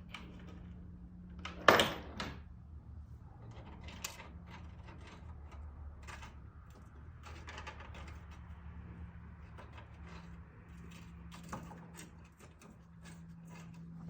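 Small metal clicks and clinks of washers and nuts being fitted onto the strut-mount studs by hand, with one louder clack about two seconds in, over a steady low hum.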